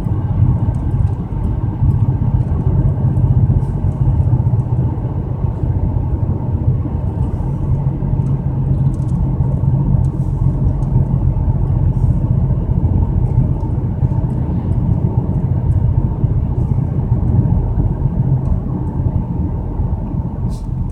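Steady in-cabin drone of a BMW 335i on the move: its turbocharged straight-six running with a low rumble and road noise. Cylinder 6 is taken to be shut down after misfiring, which the occupants put down to an injector probably stuck open and flooding it with fuel.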